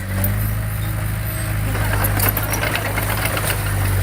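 Diesel engine of heavy earthmoving equipment running steadily, with scattered short metallic rattles and clanks over it.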